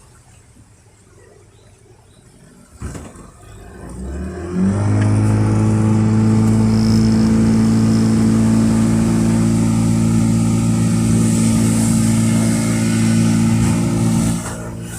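A boat's engine, quiet at first, with a single knock about three seconds in; then it revs up and runs steadily and loud at speed, easing off near the end.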